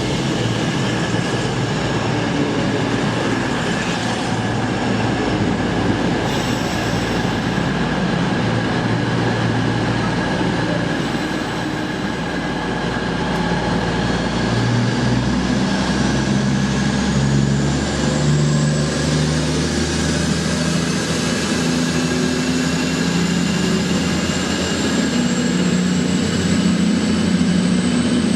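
Diesel passenger train at a station platform pulling away, its engines running up and a whine rising steadily in pitch over the last half, over continuous rail noise.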